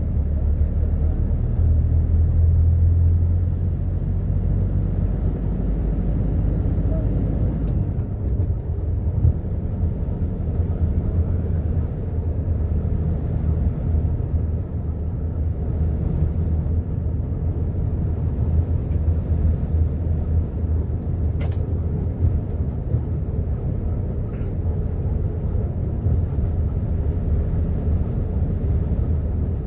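A steady low rumble of background noise, like distant traffic or wind on the microphone, with one sharp click about two-thirds of the way through.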